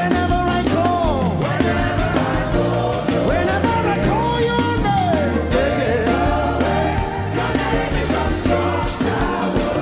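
Live gospel worship music: a lead voice sings long, sliding phrases over a full band with steady bass.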